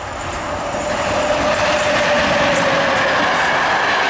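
A class 07 electric locomotive hauling passenger coaches passing at speed: steel wheel-and-rail running noise growing louder over the first second or so, then holding steady as the train goes by, with a faint whine that slides slowly down in pitch.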